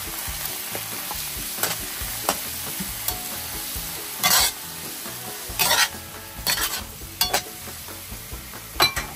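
Shrimp searing in hot coconut oil in a pan, sizzling steadily, with a utensil knocking and scraping against the pan every second or so as they are stirred.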